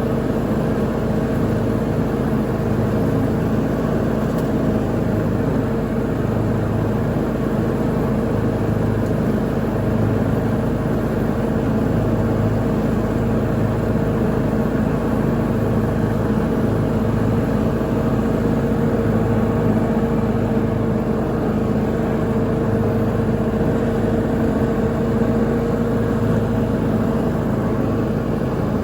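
Lawn mower engine running at a steady speed, a constant pitched hum with no changes in engine speed.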